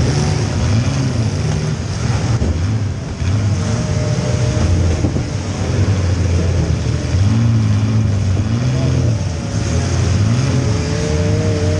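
Compact demolition-derby car's engine revving up and down repeatedly under hard throttle, heard from inside the car.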